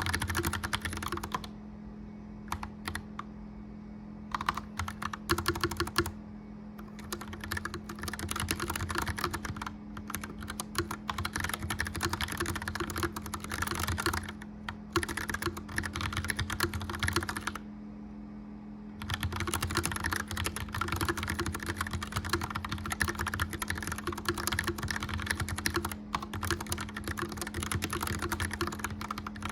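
Clicky mechanical keyboard typed on in quick runs with a few short pauses, the longest about two seconds in and about two-thirds of the way through. A gas fireplace fan hums steadily underneath.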